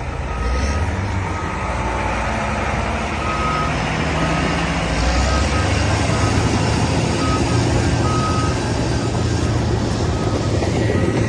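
Heavy diesel construction vehicle running under load, its reversing alarm beeping over the engine about once or twice a second; the beeping stops near the end as the engine grows louder.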